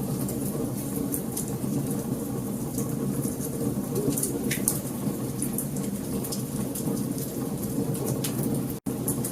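Wood fire burning, with a steady low rumble and frequent sharp crackles and pops from the burning logs. The sound cuts out for an instant near the end.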